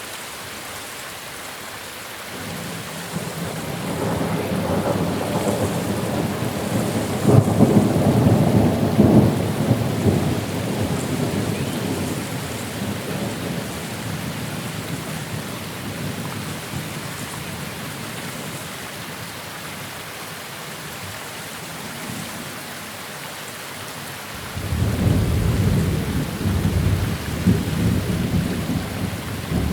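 Steady rain with two long rolls of thunder. The first builds a couple of seconds in, is loudest about a third of the way through and fades away. The second breaks in suddenly near the end.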